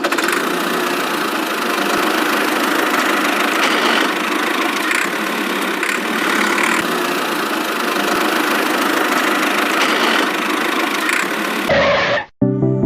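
Small motor of a homemade model tractor running steadily with an even buzzing whir and no deep rumble. It stops near the end.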